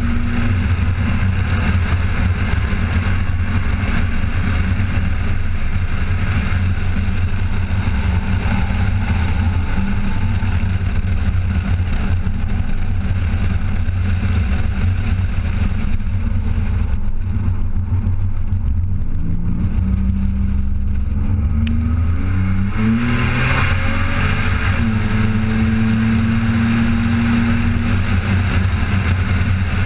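The 2001 Pontiac Bonneville SSEi's supercharged 3.8 L V6 (Eaton M90 blower) running hard at speed, with heavy wind rush on an outside-mounted camera. Past the middle the engine eases off, then its pitch climbs steadily as the car accelerates and holds a higher steady note near the end.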